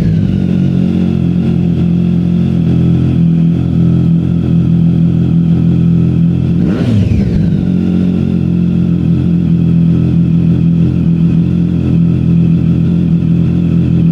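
Superbike engine idling steadily, blipped once about seven seconds in: the pitch rises sharply and falls back to idle.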